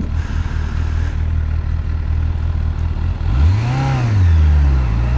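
Suzuki GSF650 Bandit's inline-four engine idling steadily, then revving up and dropping back about three seconds in as it pulls away in first gear, rising again near the end. The rider is trying to provoke a clack he gets when setting off, which he cannot place.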